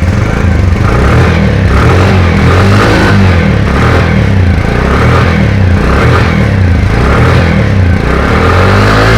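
Bajaj CT 100's single-cylinder four-stroke engine running, its note swelling and easing about once a second as the throttle is worked. It sounds healthy, a sound the seller calls excellent.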